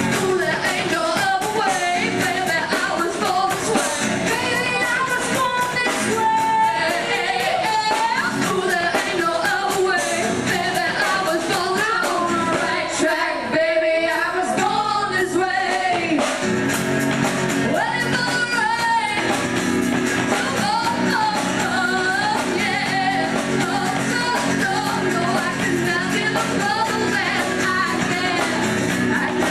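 Live pop-rock song: women singing over a band with drums. The low accompaniment briefly drops away in the middle and then comes back in.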